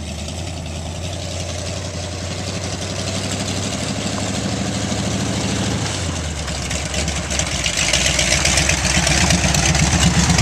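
1963 Ford 4x4 one-ton pickup's engine idling steadily, growing louder and hissier over the last few seconds.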